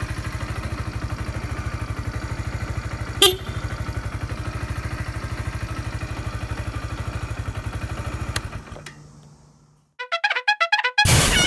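Kawasaki Z125 PRO's 125 cc single-cylinder engine idling with an even pulsing beat, with one sharp click about three seconds in; the engine sound fades away after about eight seconds. Near the end a quick run of short bright tones and a brass-like musical sting begins.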